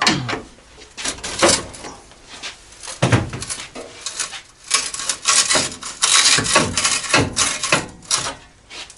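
Pry bar and hand tools knocking and scraping against metal on a vehicle's underside: a string of separate knocks and clanks, turning into a longer run of rasping scrapes from about five seconds in.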